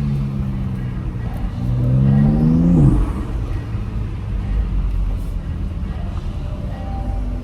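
BMW X3 M's twin-turbo straight-six running at a steady cruise, then revving up for about a second and a half before the revs drop off sharply about three seconds in, settling back to a steady low drone.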